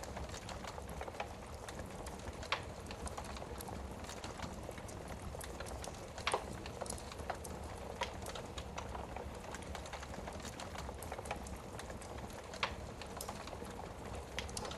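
Wood fire burning in a fireplace: a steady low hiss with irregular crackles and a few sharper pops, the loudest about six seconds in.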